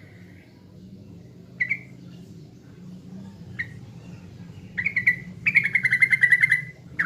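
Yellow-vented bulbul calling: two short single notes, then a rapid chattering trill lasting about a second near the end, over a steady low hum.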